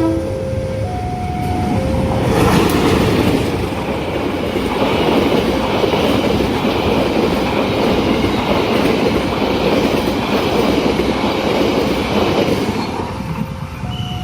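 A train passes through a level crossing at speed, its wheels clattering and rumbling loudly for about ten seconds. The crossing's electronic warning alarm, two alternating tones, sounds at the start, is covered by the train, and comes through again near the end.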